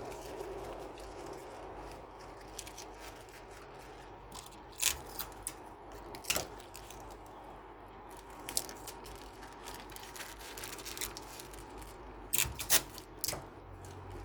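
Paper being handled and crinkled during paper-squishy making: scattered sharp crackles and clicks, loudest in a cluster near the end.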